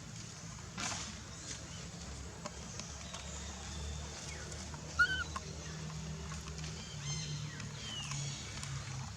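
A baby macaque gives a short, high, arched squeak about five seconds in, with a thinner falling squeal near the end, over a steady low hum.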